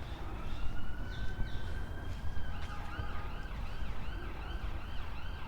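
Emergency vehicle siren sounding: a slow rising and falling wail, then from about two and a half seconds in a quicker yelp repeating about three times a second.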